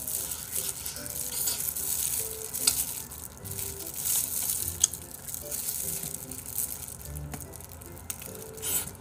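Close-miked crunching and chewing of crispy deep-fried chicken: a crackling of the fried batter with a few sharp crunches.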